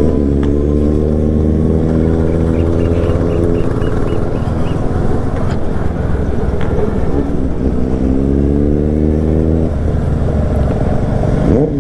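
Motorcycle engine running at highway speed with wind rushing past. The engine note holds fairly steady, then climbs as the bike accelerates from about seven seconds in.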